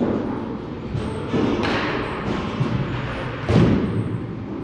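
A few thuds of baseballs being hit or caught during practice, the loudest about three and a half seconds in.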